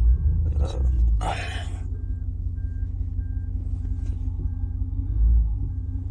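Truck engine running with a backup alarm beeping steadily, about two beeps a second, as the truck reverses. Two short hissing bursts about a second in.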